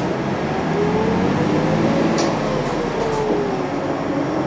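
Cabin running sound of a 2006 UD (Nissan Diesel) Space Runner RA city bus under way: diesel engine and drivetrain rumble with a whine that rises in pitch and then falls back.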